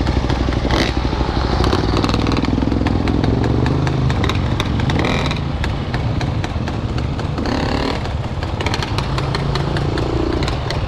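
Dirt bike engines running, their pitch rising and falling with the throttle as riders work over a rocky creek section, with scattered clicks and clatter.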